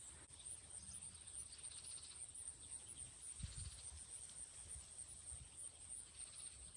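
Faint outdoor field ambience: a steady high-pitched chirring of insects such as crickets, with a brief low rumble about three and a half seconds in.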